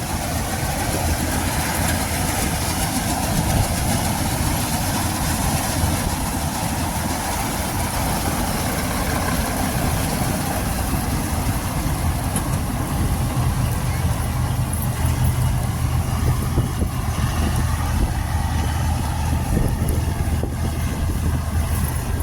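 Combine harvester running in a wheat field: a steady engine drone with machinery noise, its low hum growing stronger about halfway through.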